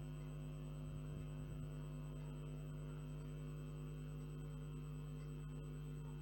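Steady electrical hum with several fixed overtones, unchanging throughout.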